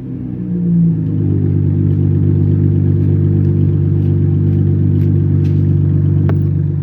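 2011 Honda Accord's 3.5-litre V6 with its mufflers and resonators deleted, settling back after a rev and then idling steadily through the open exhaust. A short click near the end.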